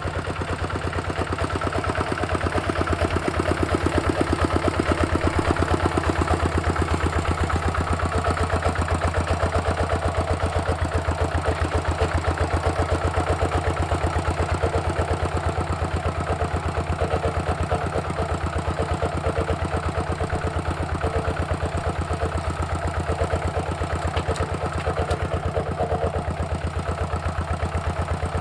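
Walking tractor's single-cylinder diesel engine running steadily with an even, fast chugging beat.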